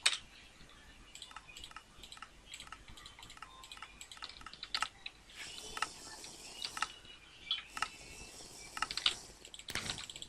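Mouth clicks: irregular sharp tongue clicks and pops, several a second, with a louder click at the very start and another near the end.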